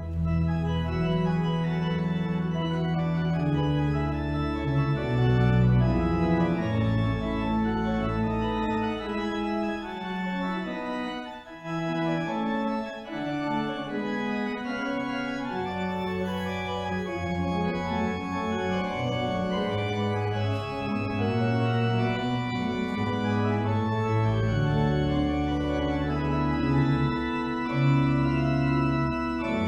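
Organ playing sustained chords over a deep bass line, with a brief lull about eleven seconds in.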